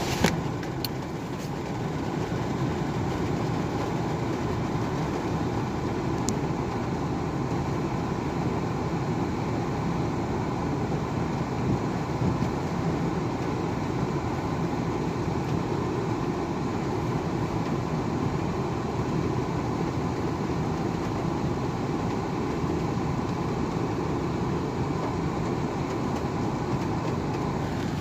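Steady, low road noise of a moving car, with one sharp click just after the start.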